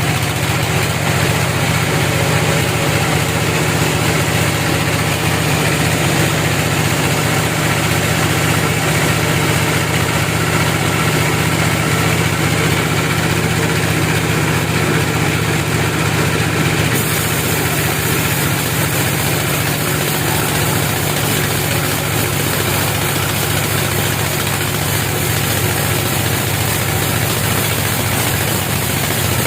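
An engine idling steadily with a deep, even hum and no change in speed.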